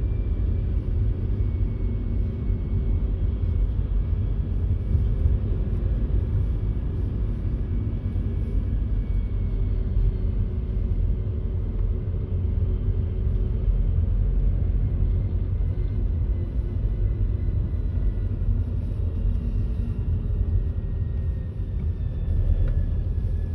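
Steady low rumble of a vehicle travelling on a highway, engine and road noise together, with faint engine tones drifting slowly in pitch.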